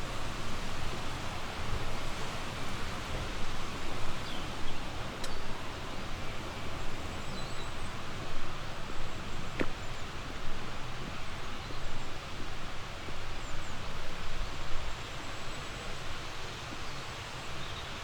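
Steady rushing outdoor noise, with faint short bird chirps now and then.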